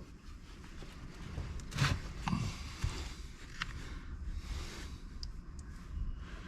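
Light clicks, knocks and scrapes of small chainsaw parts being handled and fitted during reassembly, with the loudest knock about two seconds in.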